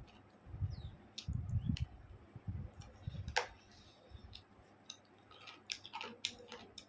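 A person chewing a mouthful of rice and chicken curry, with wet mouth clicks and smacks. The chewing is heaviest in the first three seconds, and a sharp click about three and a half seconds in is the loudest sound.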